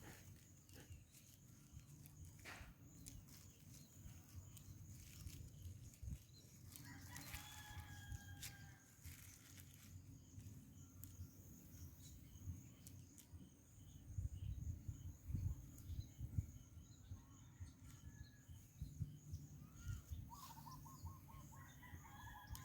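Faint countryside quiet with a distant rooster crowing once about seven seconds in and a chicken clucking in quick repeated notes near the end, over scattered low rumbling.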